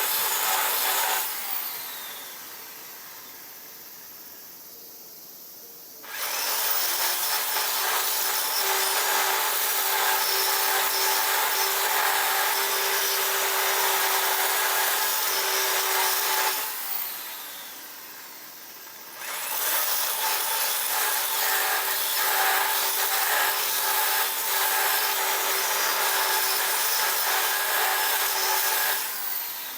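A handheld power tool cutting or grinding in three long runs, a rough rasping noise over a steady hum. It winds down gradually after each stop, with a few seconds' pause between runs.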